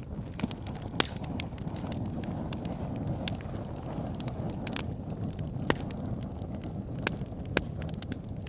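Wood fire burning in a fireplace: a steady low rumble of flames with about seven sharp crackles and pops from the burning logs at irregular intervals.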